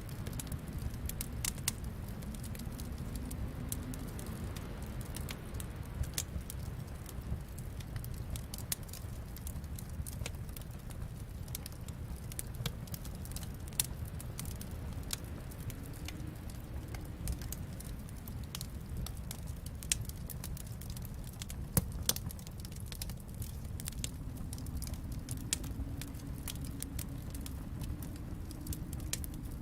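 Wood fire in a fireplace crackling: a steady low rumble with frequent sharp pops and snaps, a few louder ones about 14 and 22 seconds in.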